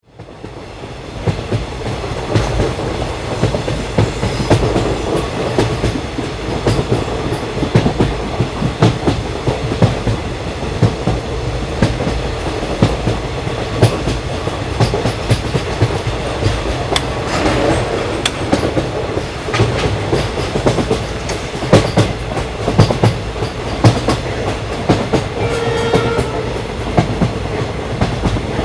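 Train running along the rails: a steady rumble with irregular clicking and knocking of wheels over rail joints, fading in at the start. A faint whistle-like tone comes in near the end.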